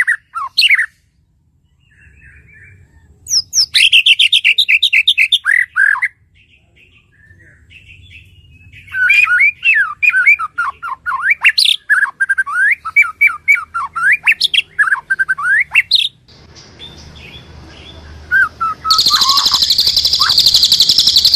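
Recorded songs of kerak basi and cililin songbirds: loud, rapid phrases of varied chattering and whistled notes with short pauses between them. After a change to a hissier recording, a dense, high buzzing trill runs through the last couple of seconds.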